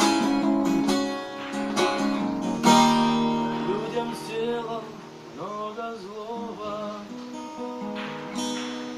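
Acoustic guitar playing the closing bars of a song: strums about one, two and three seconds in, then ringing notes that fade away.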